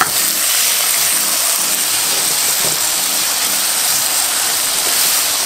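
Chopped kimchi sizzling in hot scallion oil in a frying pan: a steady, loud hiss, set off by a short sharp sound as it is tipped in at the start, and stirred with a spatula.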